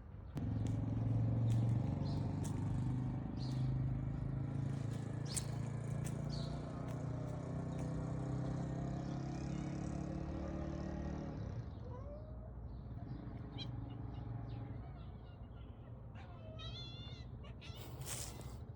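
A domestic cat purring steadily close to the microphone for about eleven seconds, then a short meow near the end, with small clicks throughout.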